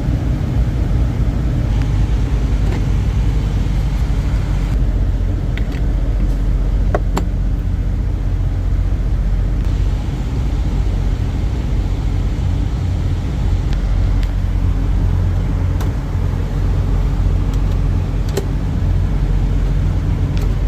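Semi truck's diesel engine running with a steady low rumble, with a few light clicks over it.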